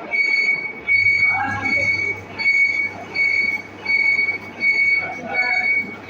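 Metal lathe at work: a high-pitched squeal that pulses on and off about every 0.8 s, over machine noise and a low hum.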